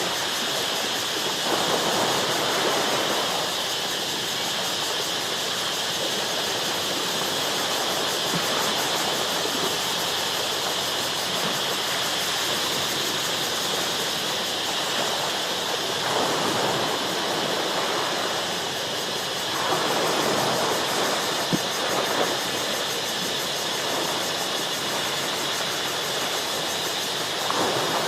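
Ocean waves washing against shore rocks, a steady wash that swells several times as surges come in, under a constant high-pitched hum of insects.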